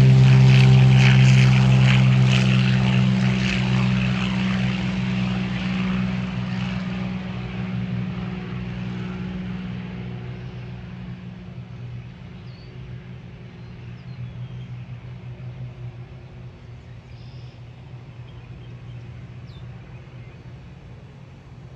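Propeller engine of a Beechcraft T-34 Mentor at takeoff power, a steady drone that is loudest at the start and fades away over about ten seconds as the plane climbs off. It is left as a faint distant hum.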